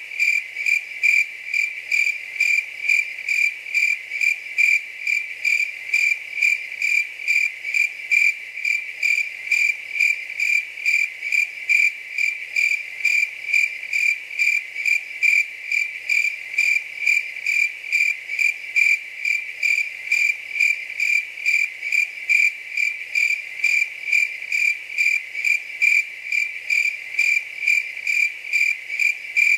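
Cricket chirping: one high-pitched chirp repeated evenly, about two chirps a second.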